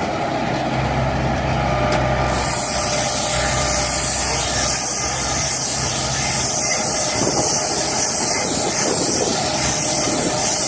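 A tractor-driven hay baler running steadily. About two seconds in, a loud steady hiss joins the machine noise.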